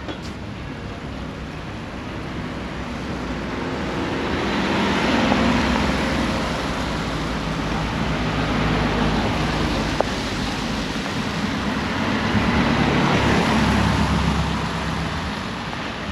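A motor vehicle passing, its engine and tyre noise swelling up and fading away, with a second swell a few seconds later.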